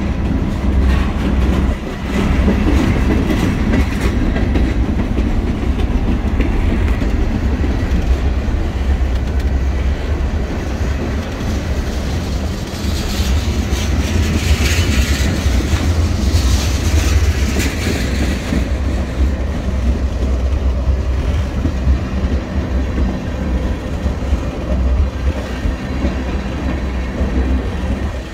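Freight cars of a long mixed manifest train, covered hoppers and then tank cars, rolling past at close range: a steady, loud low rumble of steel wheels on rail, with clickety-clack over the rail joints. A brighter hiss rises over it for a few seconds about halfway through.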